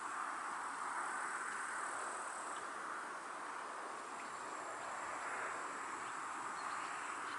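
Countryside outdoor ambience: a steady rushing hiss of breeze, willow leaves or water that swells and eases slowly, with a faint continuous high-pitched insect trill.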